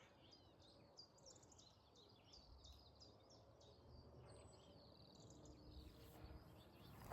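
Faint songbirds chirping and trilling, several calls overlapping, with a faint low rumble for a couple of seconds in the middle.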